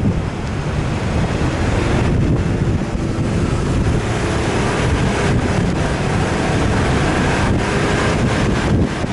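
Wind buffeting the microphone, loud and steady, with an off-road vehicle running underneath.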